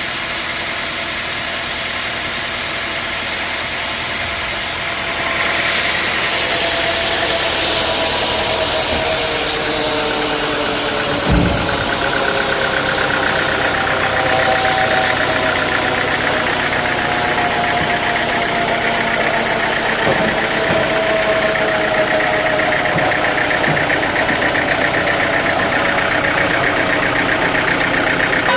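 Sawmill machinery running steadily, its motor note drifting slowly in pitch. It gets louder about five seconds in, and there is a single thump about eleven seconds in.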